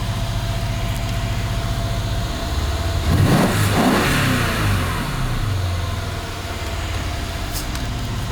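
Mercedes-Benz M278 4.6-litre twin-turbo V8 idling, with one throttle blip about three seconds in: the engine note climbs and then falls back to idle over about two seconds.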